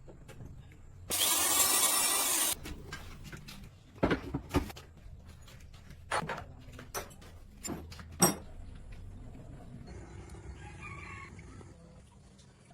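A rooster crowing near the end. Before it come a loud burst of hiss lasting about a second and a half, then several sharp knocks spread over a few seconds.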